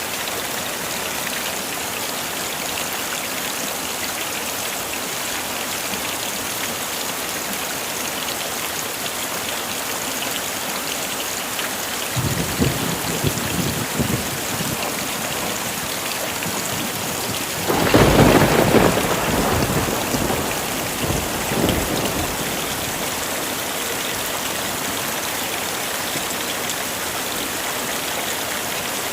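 Heavy rain falling steadily, with thunder: a low rumble about twelve seconds in, then a louder crack that rolls on for several seconds before fading.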